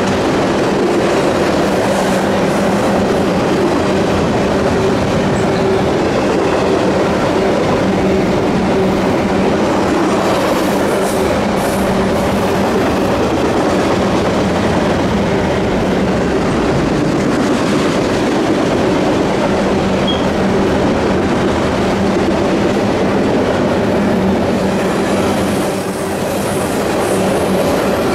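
Double-stack intermodal freight train rolling past: continuous loud rumble of steel wheels on rail with a steady low hum, briefly dipping in level near the end.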